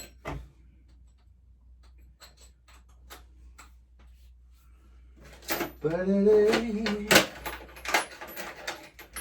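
Metal sockets and hand tools clinking and knocking as they are rummaged through in a search for a 10 mm socket, in separate scattered clinks. Near the middle comes a brief wordless voice sound with a wavering pitch, followed by a sharp knock.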